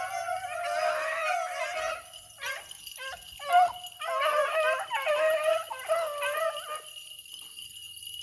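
A pack of Bramlett-line beagles baying on a rabbit's trail, several voices overlapping in a wavering chorus. The chorus breaks off briefly twice and dies away about seven seconds in.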